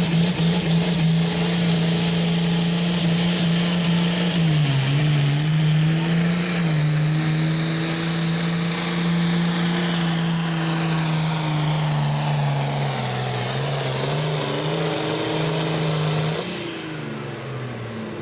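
Hot stock pulling tractor's turbocharged diesel engine running at high revs under load on a pull, holding a steady pitch with two brief dips. About sixteen seconds in, the engine is throttled back and the sound drops off sharply at the end of the run.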